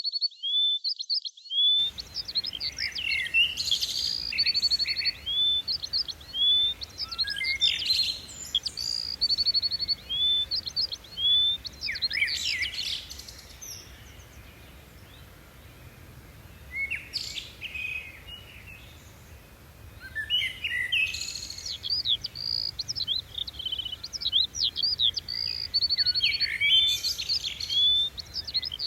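Several songbirds singing and calling together: repeated short rising whistles, rapid trills and sharp chirps, with a quieter lull about halfway through.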